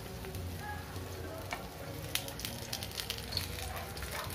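A besan-batter-coated bread slice frying in hot oil in a pan, sizzling steadily with sputtering pops that come more often from about two seconds in.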